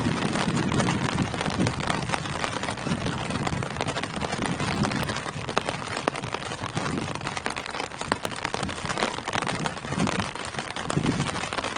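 Steady rain falling on tree foliage: a dense, even patter with many individual drops ticking through it. A low rumble swells under it now and then, most strongly near the start and the end.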